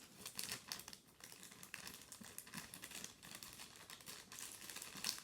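A package being opened by hand: irregular crinkling and rustling of packaging, with some tearing.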